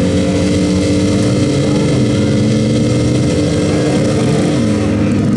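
Car engines running and revving, one holding a steady high pitch throughout.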